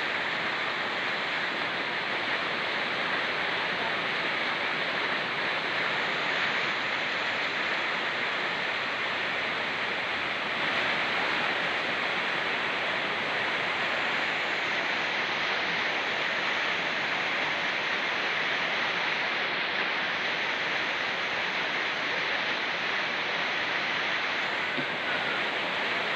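Steady rush of rain falling on forest, mixed with the constant flow of a fast-running mountain river.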